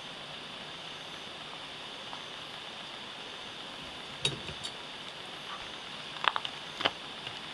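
Campfire burning: a steady hiss with a few sharp crackles and pops of the wood, the loudest cluster near the end.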